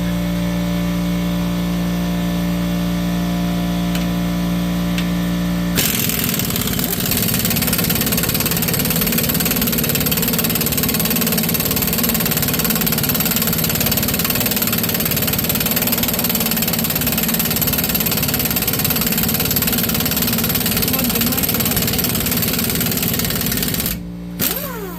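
An air compressor hums steadily while its tank refills. About six seconds in, an air impact wrench starts hammering without a break on a rusted rear leaf-spring U-bolt nut that will not come off, and it stops a second before the end while the compressor keeps running.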